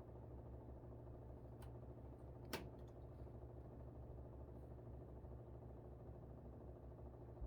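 Air conditioner running with a steady low hum that pulses slightly. A faint click comes about one and a half seconds in, and a sharper click about a second later.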